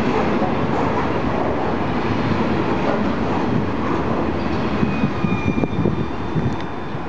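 Freight train cars loaded with trash containers rolling past on the rails: steady wheel-and-rail rumble, with a few knocks and a thin high squeal in the second half as it thins out slightly near the end.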